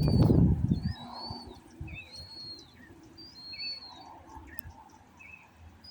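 A bird calling over and over: a short arched whistle repeated about once a second, with brief lower chirps between. A loud rustling noise fills the first second.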